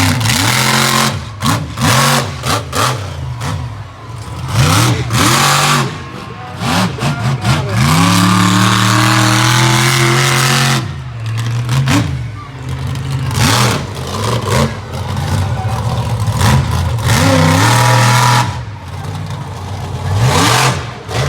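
Monster truck engine revving hard again and again, its pitch climbing and dropping, with a couple of long sustained high revs and sharp bangs in between.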